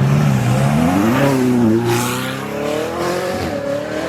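A performance car's engine revving hard as it accelerates away: the pitch climbs, drops back about a second and a half in as a gear change, then climbs again, over the hiss of tyres on a wet road.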